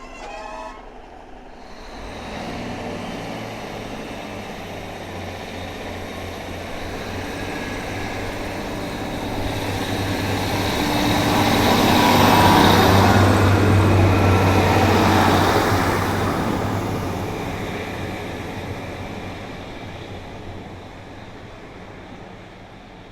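Diesel train passing through the station. The low engine drone and rail noise build up, are loudest about halfway through, then fade away.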